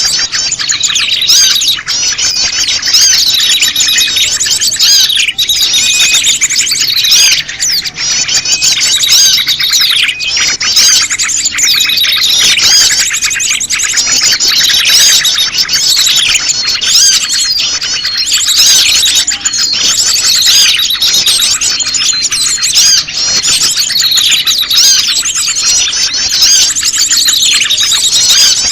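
Bird-lure recording of a loud, dense chorus of small songbirds, built around prenjak lumut calls: many chirps, rapid trills and short down-slurred notes overlap without a break.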